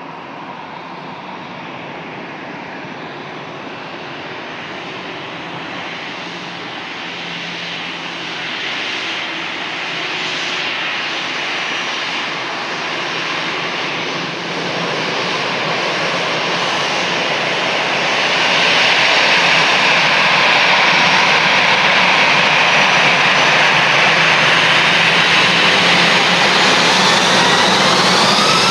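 Jet engines of an Airbus A320-214, its CFM56 turbofans, growing steadily louder as the airliner draws nearer, with a clear jump in loudness about two-thirds of the way through.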